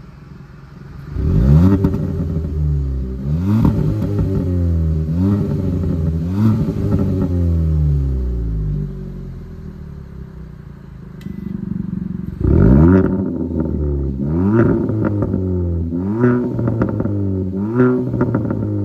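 Hyundai Tucson 1.6T's turbocharged four-cylinder revved through an aftermarket valved mid- and rear-section exhaust. There are repeated quick blips that rise and drop back, about four in the first eight seconds. It settles to idle for a few seconds, then comes another series of blips about twelve seconds in.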